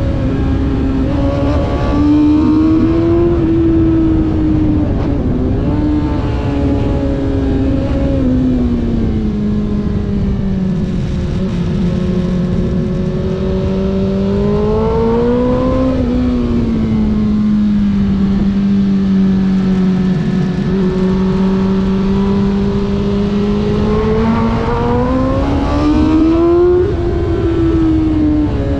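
Racing vehicle's engine heard onboard under a steady rush of wind, its pitch rising and falling with the throttle. It climbs about two seconds in, settles to a long, steady, lower note through the middle, and climbs sharply again near the end.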